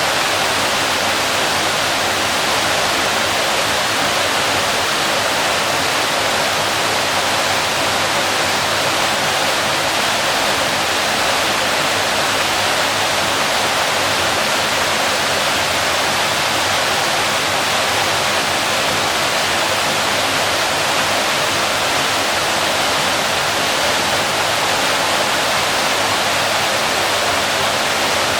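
Waterfall: water falling and crashing, a steady, unbroken rush.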